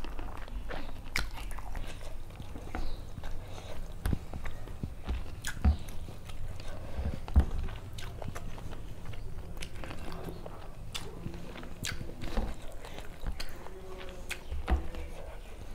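A person chewing food, with irregular wet mouth clicks and occasional crunches.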